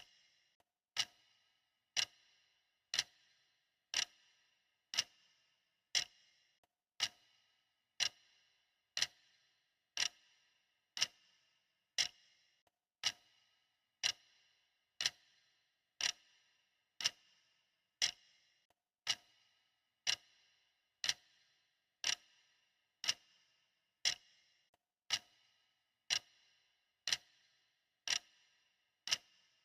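Clock ticking: a steady run of evenly spaced, sharp ticks.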